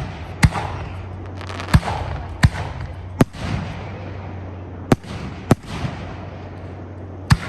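Aerial fireworks shells bursting: seven sharp bangs at uneven intervals, some followed by crackling, over a steady low hum.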